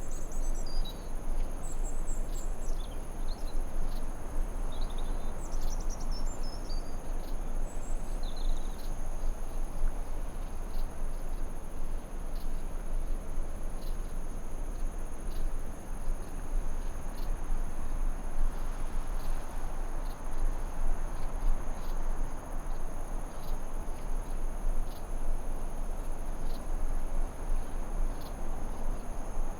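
Forest ambience: an even hiss under a continuous high-pitched insect trill, with short bird chirps through the first several seconds and again at the end.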